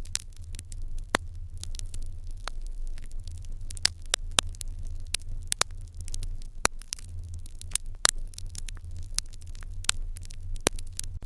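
Open fire in a Japanese irori hearth crackling, with frequent sharp, irregular pops over a low steady hum.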